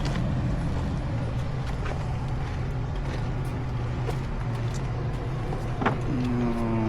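A steady low engine hum, like a motor vehicle idling, with a few faint ticks. A sharp click comes near the end, followed by a short held voice-like tone.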